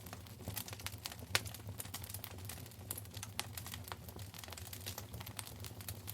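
Wood fire crackling in a fireplace: irregular sharp pops and snaps, a louder one about a second and a half in, over a steady low rumble of the burning.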